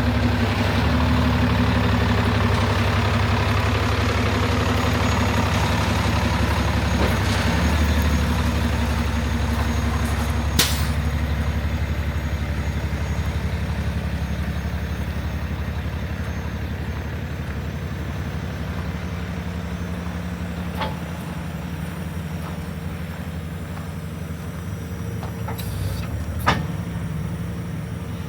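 Paccar PX-9 six-cylinder diesel engine of a Kenworth T370 truck running steadily at idle, slowly getting quieter. A few short sharp clicks or hisses sound about a third of the way in, past halfway and near the end.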